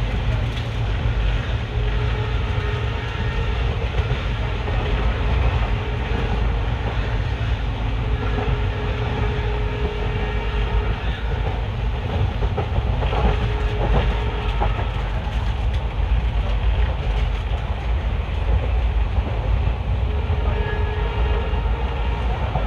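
Steady running noise of an Indian Railways ICF passenger coach at speed: wheels on the rails with a deep rumble and occasional clickety-clack over rail joints.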